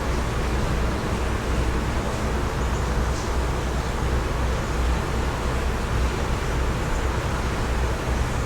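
Wind blowing steadily outdoors, gusting against the microphone with a low, uneven rumble. A few faint high chirps, likely birds, come through about two to three seconds in.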